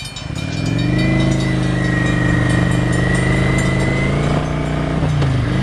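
Car engine pulling away and accelerating: its pitch climbs in the first second, holds steady, then drops about five seconds in.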